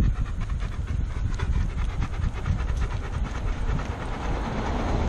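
Riding noise from a moving bicycle: a steady low rumble of wind and tyres on the road, with frequent light rattling and clicking from the bike.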